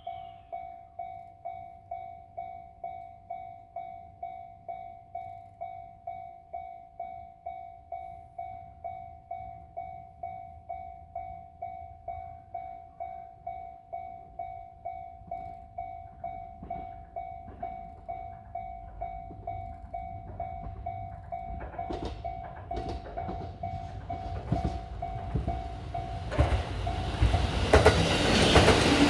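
A level crossing warning bell rings steadily, about two strokes a second, as a JR Kyushu KiHa 220 single-car diesel railcar approaches. The railcar's engine and wheel clatter grow from about two-thirds of the way in and are loudest as it passes close by near the end.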